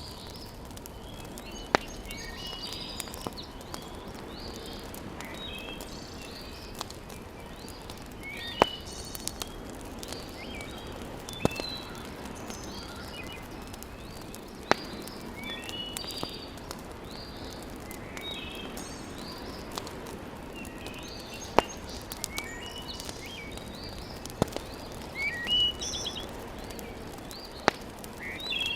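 Wood fire crackling in a fireplace, with a sharp pop every few seconds over a steady hiss. Birds chirp and twitter in the background throughout.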